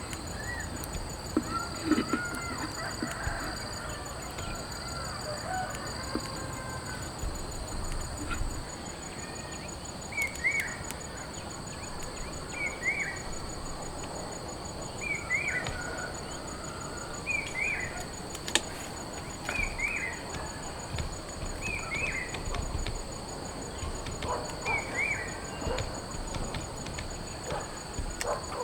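Birds and insects calling outdoors: steady, high, pulsing insect trills throughout, varied bird calls at first, then one bird repeating a short chirp seven times, about every two and a half seconds.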